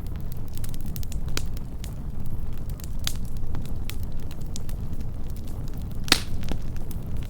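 Wood campfire burning close up: a steady low rumble of flame under irregular sharp crackles and pops, the loudest pop about six seconds in.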